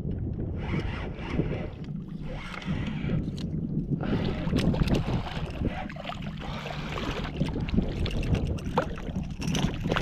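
Wind buffeting the microphone on a fishing kayak, with water splashing and sloshing and scattered light knocks against the boat. The splashing grows busier about four seconds in.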